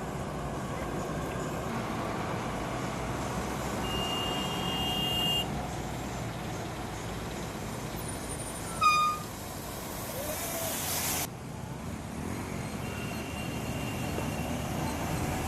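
Road traffic moving slowly along a waterlogged road: engines running and tyres hissing, with one short horn toot about nine seconds in. A louder hiss builds around ten seconds in and cuts off suddenly.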